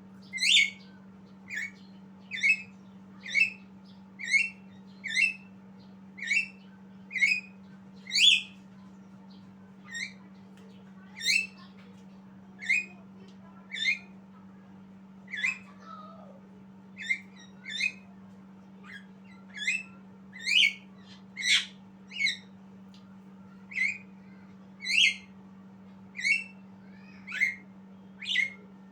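A bird giving short, sharp calls one after another, roughly once a second and varying in loudness, over a steady low hum.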